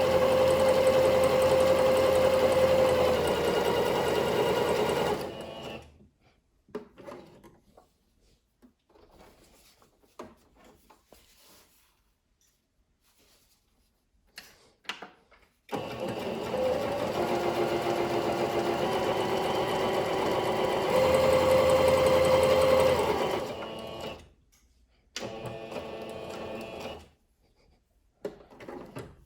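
Singer Curvy domestic sewing machine running in bursts. It runs for about five seconds and stops, with a few faint clicks in the pause. Then it runs again for about eight seconds, getting louder near the end, and gives one more short run of about two seconds.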